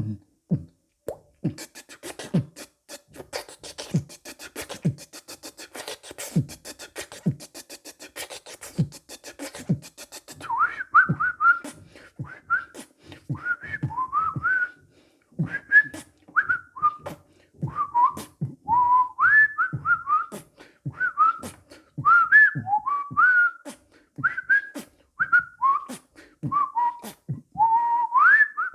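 Human beatboxing: low kick beats and rapid clicking hi-hat sounds made with the mouth. About ten seconds in, bird-like whistled chirps that swoop up and down join the beat.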